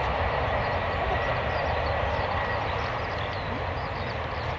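Boeing 737-800's CFM56 jet engines running, a steady rushing noise over a low rumble with a faint thin whine, slowly fading.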